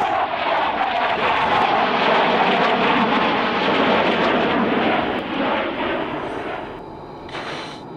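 Jet aircraft engine noise, a loud steady rush for about six seconds that then fades away.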